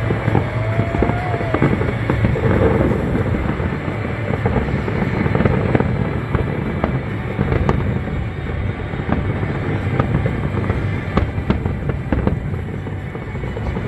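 Aerial fireworks going off in a dense run of bangs and crackles, with music playing underneath.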